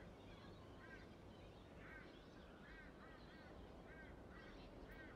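Faint bird calls, short arched calls repeating about once or twice a second, over quiet background noise.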